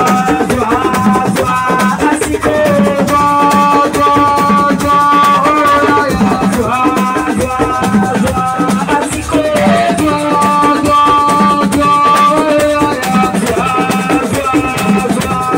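Assiko band music: a steady beat of drums and shaken rattles under a held melody line that moves in steps from note to note.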